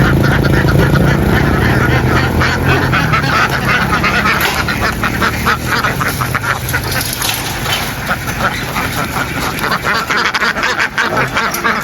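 A large flock of ducks quacking continuously, many calls overlapping. A steady low engine hum runs underneath for the first few seconds and fades out about four seconds in.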